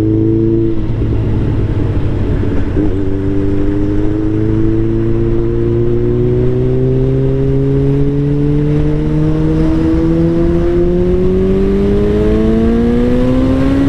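Suzuki Hayabusa's inline-four through an Akrapovič 4-into-1 full exhaust system, heard while riding. It shifts up twice in the first few seconds, then pulls in one gear with the exhaust note rising slowly and steadily.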